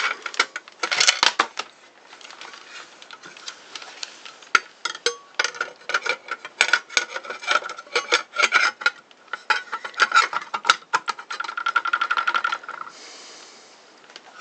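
Metal parts of a circular saw being handled and fitted by hand: irregular clinks, scrapes and rattles of steel pieces against each other and the saw body, with a quick run of clicks shortly before the end.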